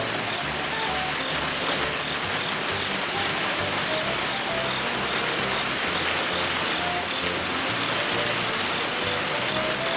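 Heavy rain falling steadily, with background music of short bass and melody notes laid over it.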